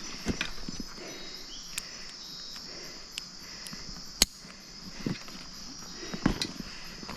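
Night-time tropical rainforest insect chorus, a steady high trilling buzz. A few sharp clicks and knocks cut across it as a climber settles on a tree-stand seat; the loudest click comes about four seconds in.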